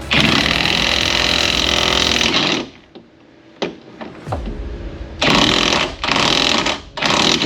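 Impact wrench running bolts on the step-bar brackets. It gives one long burst of about two and a half seconds, then a pause, then three short bursts near the end.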